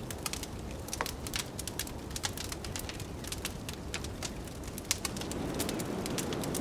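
Wood fire in a fireplace crackling, with frequent sharp irregular pops, over a steady low blizzard wind that swells a little near the end.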